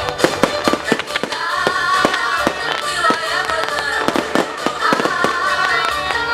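Fireworks display: a rapid run of sharp bangs and crackles from bursting shells. Music with a melody plays along, coming in more strongly about a second and a half in.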